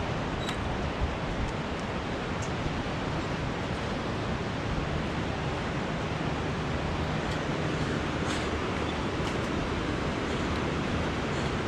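Steady rushing noise with a few faint high ticks, typical of wind or rain outdoors.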